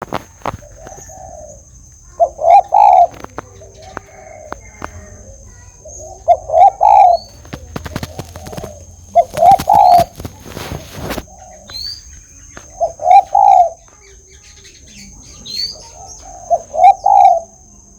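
A spotted dove cooing its repeated phrase, a few soft lead-in notes then a loud rolling coo, five times about every three and a half seconds. Faint high chirps from small birds and a rustling noise partway through are also heard.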